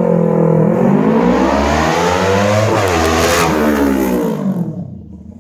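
Honda CBR250RR parallel-twin engine running through an R9 GP1 aftermarket racing exhaust, revved hard. The note cuts in suddenly and loud, dips, climbs to a peak about three seconds in, then drops and fades away near the end.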